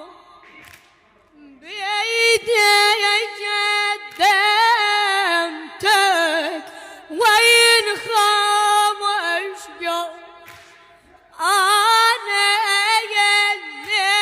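A solo high voice singing unaccompanied, with a wavering, heavily ornamented melody. Long phrases break off briefly after about ten seconds and then resume.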